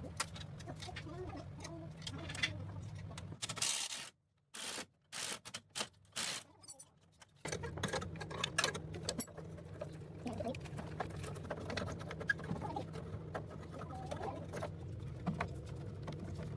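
Many light clicks, rattles and scrapes, like small metal parts being handled, over a steady low hum. About four seconds in, the hum drops out for roughly three seconds, leaving only a few short bursts, then comes back.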